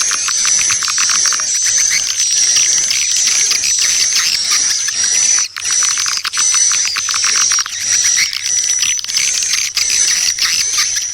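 Swiftlet calling sound for luring edible-nest swiftlets: dense, high-pitched twittering chirps over rapid clicking, running on without pause except for a brief break about five and a half seconds in.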